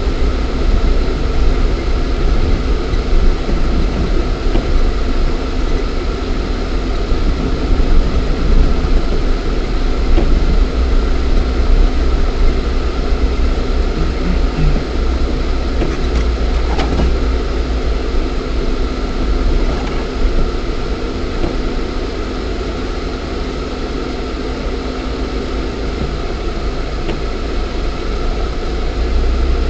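Lada Niva 1.7i's four-cylinder petrol engine and drivetrain running steadily under way, heard from inside the cabin as a loud, continuous low rumble.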